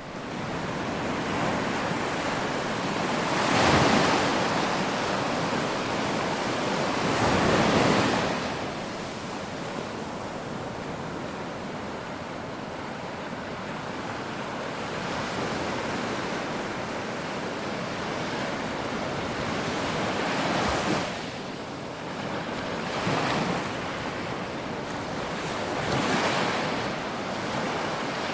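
Ocean waves breaking on a shore: a continuous rush of surf that swells louder each time a wave breaks, twice strongly in the first ten seconds and several more times later.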